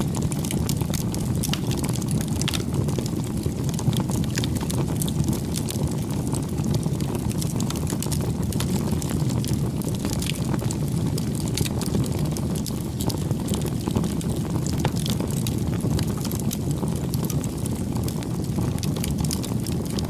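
Campfire burning: a steady low rumble of flame with frequent sharp crackles and pops from the burning wood.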